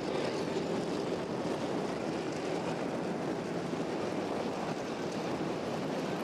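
Racetrack ambience under caution: the steady, even drone of modified race car engines circling at reduced speed, with no distinct pass-by.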